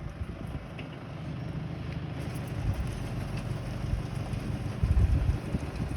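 Fiat 70-56 4WD tractor's diesel engine running steadily at idle, with a brief louder low rumble about five seconds in.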